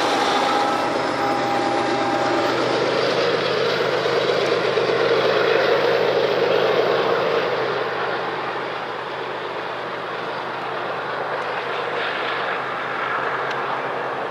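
Steady rumbling noise, loudest in the first half. From about halfway, the lower, steady running of a BNSF diesel locomotive leading a train of tank cars as it approaches.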